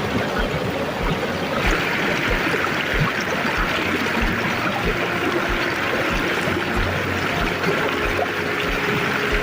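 Water running steadily in a stream or channel, getting fuller and splashier about a second and a half in, with a low regular thump about twice a second underneath.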